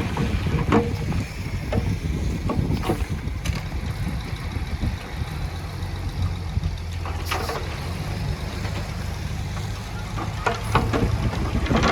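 The diesel engine of heavy earthmoving machinery running steadily under a low hum, with occasional sharp knocks scattered through it.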